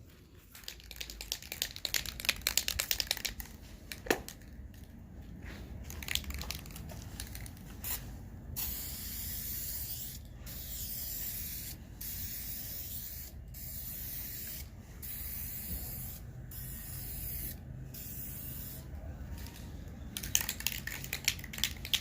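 Aerosol can of VHT tint spray hissing out in about seven short passes with brief pauses between them, after a spell of clicking and rattling.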